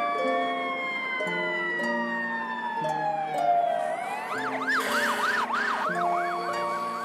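Fire truck siren sound effect: a slow wail gliding down in pitch, then, about four seconds in, a fast yelp rising and falling about four times a second. Under it plays a simple children's tune of held notes.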